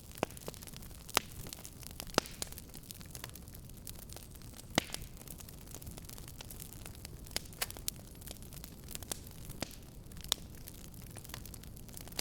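Fireplace fire crackling: irregular sharp pops, a few loud ones among many small ticks, over a steady low rumble of the burning fire.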